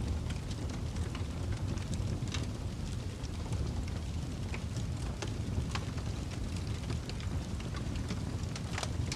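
Wood fire burning in a fireplace: a steady low rumble of the flames with scattered sharp crackles and pops from the burning logs, several a second, irregular.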